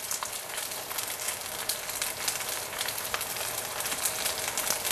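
Pot stickers frying in about two tablespoons of hot cooking oil in a deep saucepan: a steady sizzle with many small crackles as more dumplings go into the pan.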